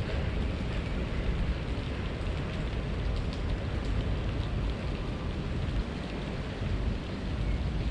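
Steady outdoor background noise, mostly a low rumble, with a few faint light ticks above it.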